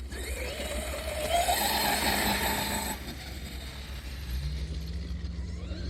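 Large radio-controlled car driving through grass. A rising motor whine climbs as it speeds up, and a loud rush of tyres through grass stops suddenly about three seconds in.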